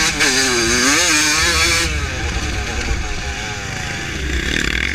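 1982 Suzuki RM125X's 125 cc two-stroke single-cylinder engine under way. The revs rise and fall sharply through the first two seconds, ease off for a couple of seconds, then pick up again near the end.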